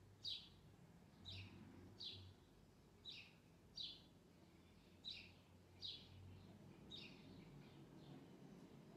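A small bird chirping faintly: short, quick downward-sliding chirps, about one a second, that stop a couple of seconds before the end, over a faint low hum.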